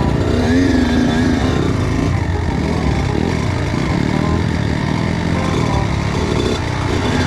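Kawasaki KX85 two-stroke motocross bike engine running and revving, its pitch rising and falling.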